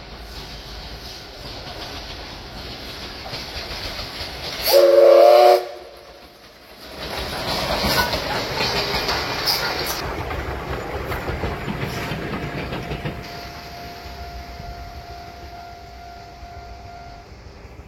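Train running on rails with a steady clatter, a short loud blast of a train horn about five seconds in, then a heavier rumble of wheels on track that swells and slowly fades.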